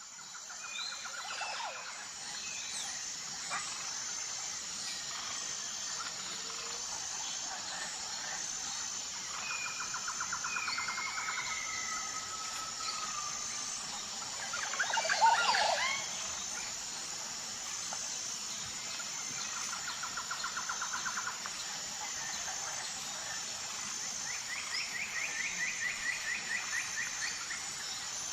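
Tropical forest ambience: a steady high-pitched insect drone with a faster pulsing tone in it, under birds giving rapid trills again and again. A loud cluster of bird calls about halfway through is the loudest moment, and a few drawn-out whistles slide in between.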